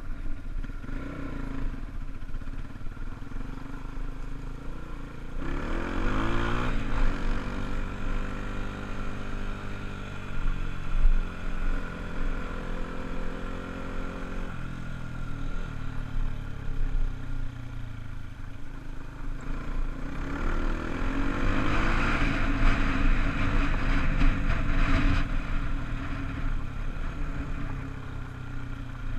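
Honda dirt bike engine running and revving. It climbs in pitch about six seconds in, holds steady, drops back about halfway, then climbs again and stays high before easing off near the end.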